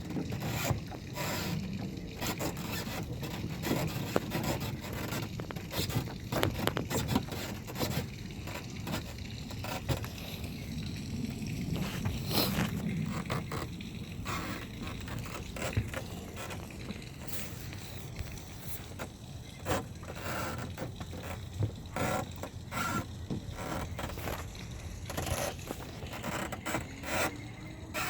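Irregular scraping, rubbing and light knocks against a canoe's hull and wooden deck as someone shifts about in it, over a low rumble.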